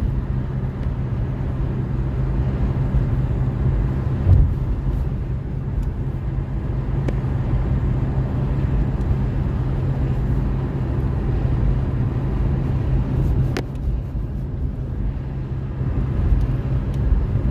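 Steady engine and road rumble of a moving road vehicle, with a brief thump about four seconds in and a sharp click near the end.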